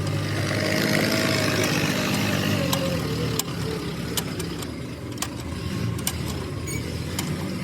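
An engine or motor running steadily with a low hum. Sharp clicks and taps are scattered through it.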